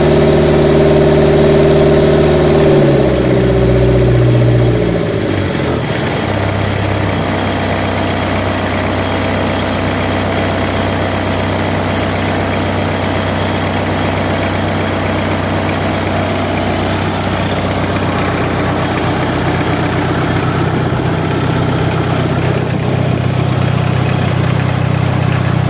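Toyota 3C four-cylinder diesel engine running warm. About three to five seconds in its revs fall away from a raised speed, and it then idles steadily; the tester finds nothing wrong with how it runs.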